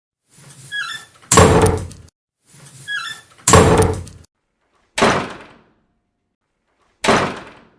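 Door sound effect: a door is worked with a short squeak and then slammed shut, twice, followed by two more single shorter bangs. The two slams with the squeak before them are the loudest.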